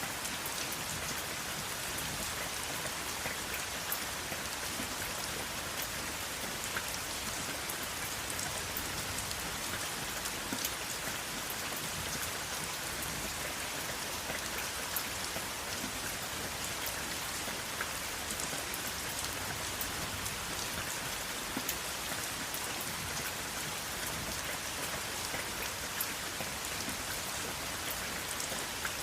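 Steady rain falling on a surface: an even hiss with many small drop ticks and no thunder.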